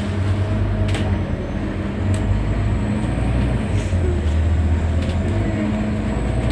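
Scania N230UD double-decker bus's 9-litre five-cylinder diesel engine running under way, a steady deep drone with a faint whine. It grows a little louder about two seconds in and again about four seconds in.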